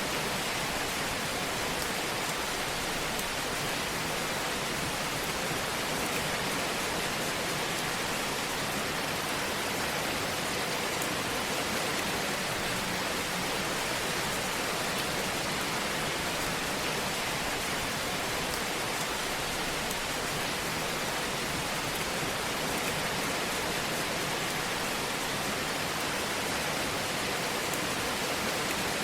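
Wood fire burning in a fireplace: a steady hiss with occasional faint crackles.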